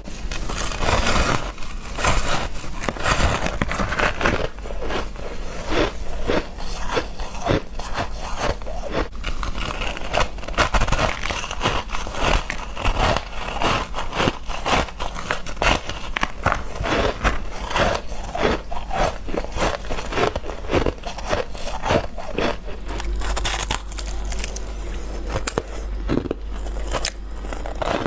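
Freezer frost being bitten and crunched close to the microphone: a dense, continuous stream of sharp crackles and crunches.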